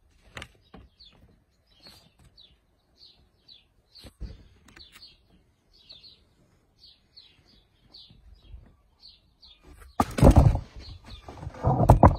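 A small bird chirping over and over, short high chirps about two a second. About ten seconds in, a loud rustling, rumbling noise on the microphone covers it.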